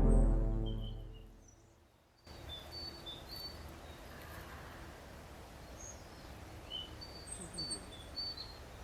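Synthesizer music fades out over the first two seconds. Then an outdoor nature ambience cuts in: a steady background hiss with scattered short, high bird chirps.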